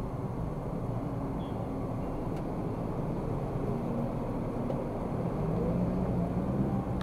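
Car being driven: steady engine and road noise, with faint engine tones that shift slightly in pitch.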